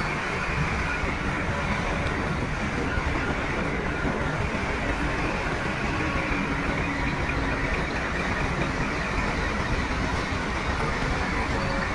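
Crawler bulldozer at work: its diesel engine runs steadily with a low rumble, mixed with the clatter and squeak of its steel tracks.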